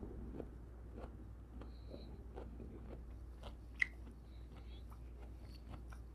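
Close-up chewing of soft cantaloupe chunks, a steady run of small wet mouth clicks and smacks, with one sharper click about four seconds in.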